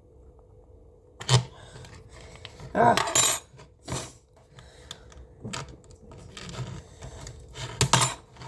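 Sharp clicks and knocks from a sauce container and its lid being twisted and handled in a struggle to open it, coming in several separate bursts.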